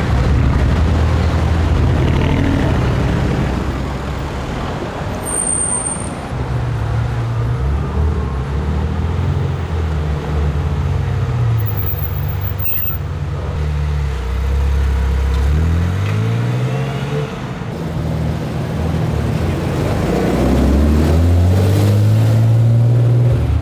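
Several cars driving off one after another, among them a yellow Ferrari F355 Spider and a classic Ferrari coupé, each engine note rising as it accelerates away, over street traffic noise.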